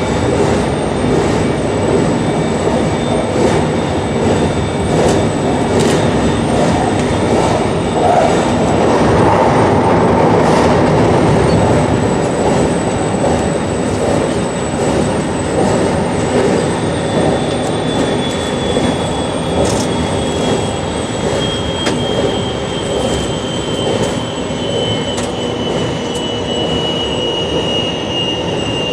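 JR Shikoku 8600 series electric train running at line speed, heard from inside the front of the train: steady wheel-on-rail and running noise with occasional clicks. From about halfway through, a thin high whine slowly falls in pitch.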